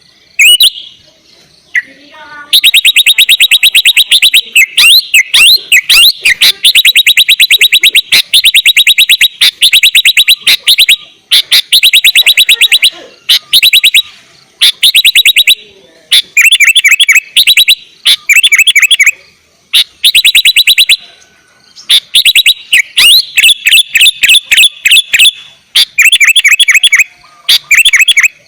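Sooty-headed bulbul (kutilang) singing hard, in long runs of rapid, evenly repeated chattering notes, each run lasting one to a few seconds with brief pauses between. The song is very loud and close.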